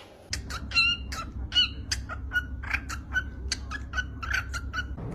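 A parrot making a rapid run of short clicking chirps, about four a second, over a low steady hum.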